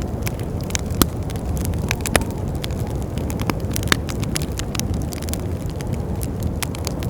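Wood fire crackling with many small sharp pops, one louder pop about a second in, over a steady low rush of wind.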